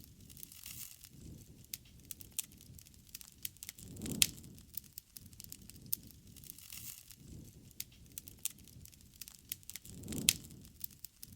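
Wood fire crackling, with irregular sharp pops and snaps over a low soft rumble of flame. The loudest snaps come about four seconds in and again near the end.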